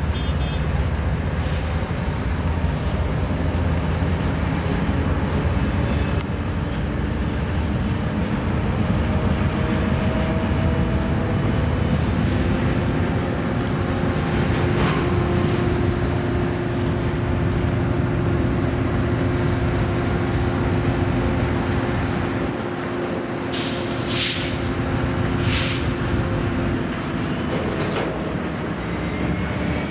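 Slow freight train of covered hopper cars rolling past, wheels rumbling and clattering on the rails over a steady low diesel rumble, with several held tones. A few brief high hisses come near the end.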